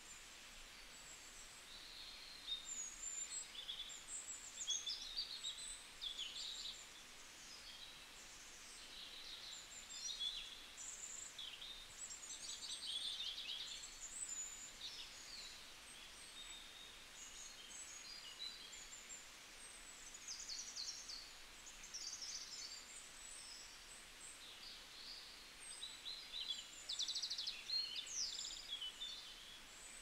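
Several songbirds singing and calling at once, a continuous overlapping mix of high chirps, whistles and rapid trills.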